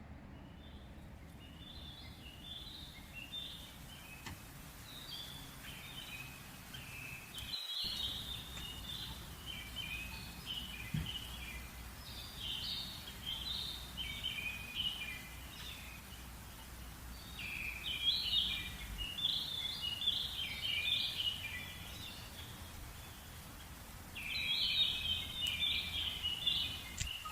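Wild birds singing in short, busy phrases that recur every few seconds, over a low, steady outdoor background hum.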